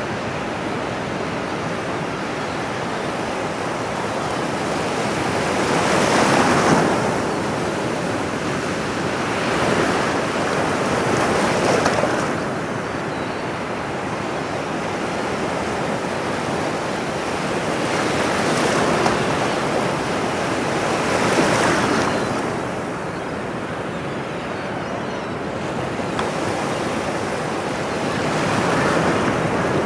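Ocean waves washing onto a shore, with the surf swelling and breaking every few seconds over a steady hiss.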